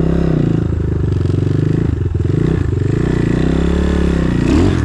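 Enduro motorcycle engine running hard, its revs rising and falling several times as the rider works the throttle.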